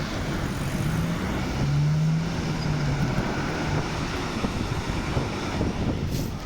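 A train passing close by: a steady rushing noise with a low hum that swells about two seconds in.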